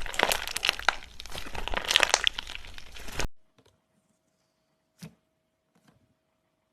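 Slime being worked by hand, crackling with a dense run of tiny pops and clicks. The sound stops abruptly about three seconds in, leaving near silence with a couple of faint clicks.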